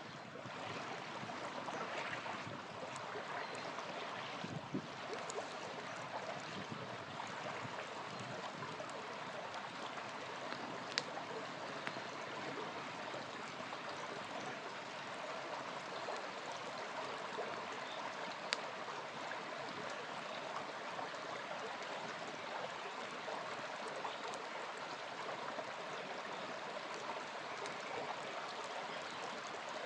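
Small river flowing steadily, with occasional sharp pops from a crackling campfire, two standing out clearly about eleven and eighteen seconds in.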